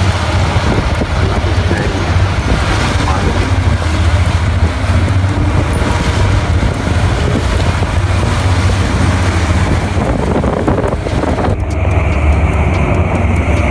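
Boat engine running steadily with wind buffeting the microphone. Near the end the hiss suddenly drops away and a steady higher whine comes in over the engine drone.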